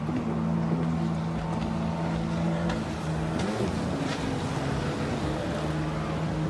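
An engine running steadily, a low hum whose pitch dips slightly about five seconds in, with wind noise over it.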